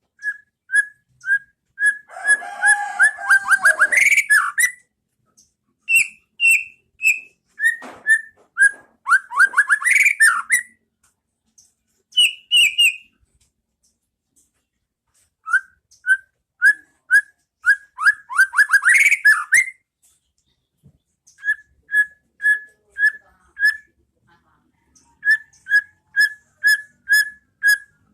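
White-rumped shama (murai batu) singing: series of short, clear whistled notes repeated about twice a second, broken three times by quick runs of downward-sweeping trills and by a few short pauses.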